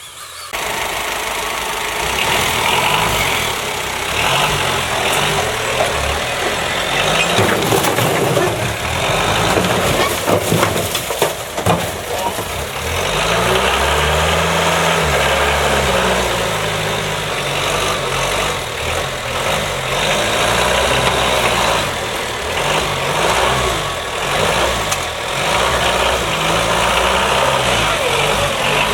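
A vehicle or machine engine running loudly, its revs rising and falling at times.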